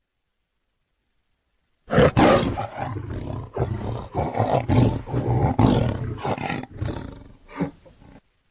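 Tiger roaring and growling in a run of rough, pulsing calls, starting about two seconds in after silence and tapering off near the end.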